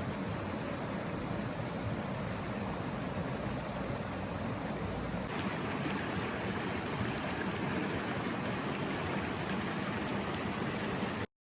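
Steady rushing noise. Its tone shifts sharply about five seconds in, and it cuts off abruptly near the end.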